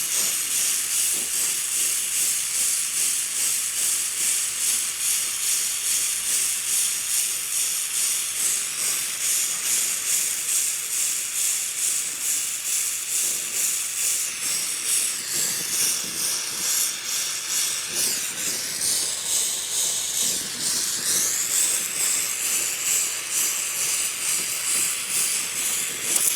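Ambro Precision Torch's oxygen and MAP gas flame hissing steadily as it heats and brazes a 3/8-inch copper joint, the hiss pulsing in an even rhythm.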